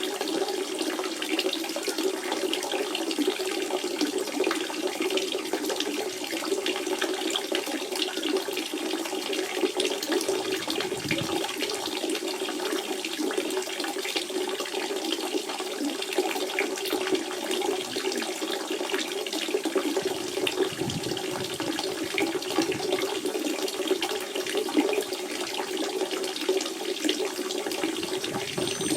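Water from a natural spring running and splashing in a steady, continuous flow.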